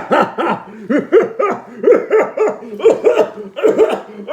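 A man's put-on villain laugh: a long, even run of voiced 'ha' pulses, about three a second.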